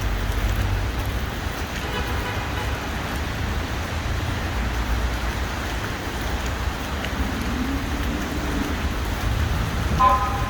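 City street ambience: a steady rumble and hiss of road traffic, with a short pitched sound near the end.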